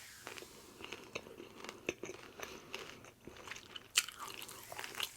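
Close-up chewing of crunchy food, mouth sounds with irregular small crunches and clicks and a sharper crunch about four seconds in.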